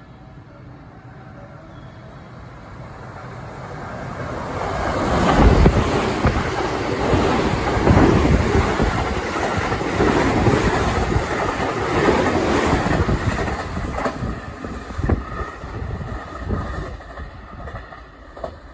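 A 12-car JR West 225 series 0 and 223 series 2000 electric rapid train passing through a station at speed without stopping. It grows louder over the first five seconds, wheels clack over the rail joints as the cars go by, and it fades as the train draws away.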